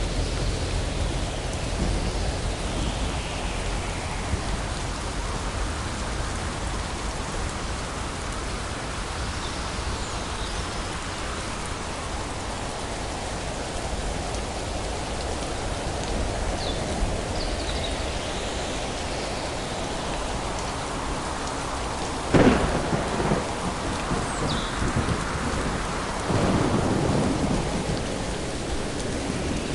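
Steady rainfall with rolling thunder. About two-thirds of the way through comes a sharp thunderclap, the loudest sound, followed a few seconds later by a heavier rumble.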